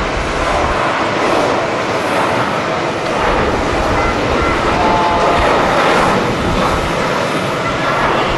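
Jet airliner engines running with a faint steady whine, over wind buffeting the microphone in low, irregular gusts.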